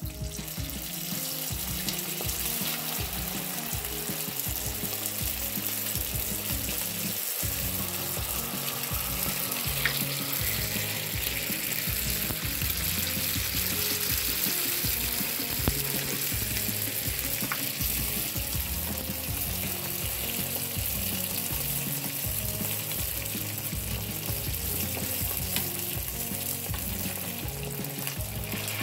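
Rice-paper spring rolls deep-frying in a pan of hot oil: a steady, dense sizzle and crackle of bubbling oil. This is their first frying, before they are cooled and fried a second time for crispness.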